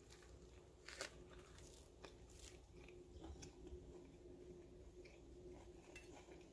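Faint sounds of a person biting into and chewing a chicken bacon club wrap: a sharp crunch about a second in, then soft, scattered chewing crunches.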